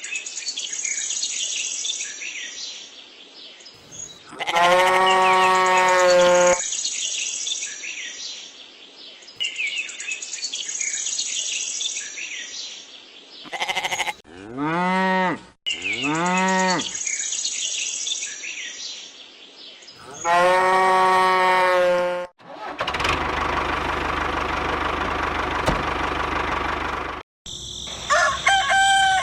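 Farm animal calls over birds chirping: a long pitched call about four seconds in, two short calls that rise and fall around fifteen seconds, and another long call around twenty seconds. Then comes several seconds of steady noise, and a wavering call near the end.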